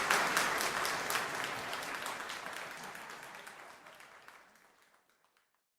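Applause, many hands clapping, fading out steadily to silence about five seconds in.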